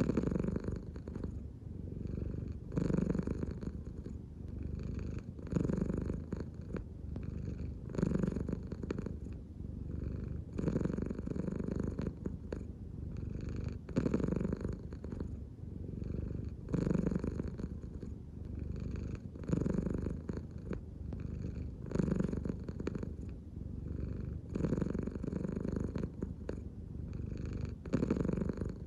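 American Shorthair cat purring steadily and close up, the purr swelling louder about every three seconds with each breath.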